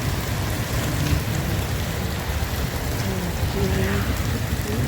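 Heavy rain pouring steadily, an even hiss of downpour with a deep low rumble beneath it.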